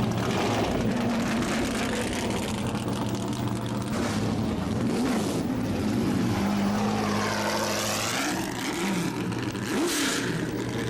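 Engine noise running steadily, with a sweeping sound of something passing by about two-thirds of the way through.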